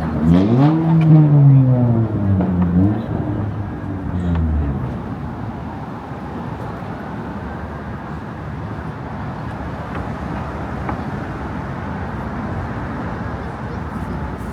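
Steady traffic noise from cars on the bridge roadway. Over the first three seconds a person's loud voice is heard in one drawn-out utterance that rises and falls in pitch.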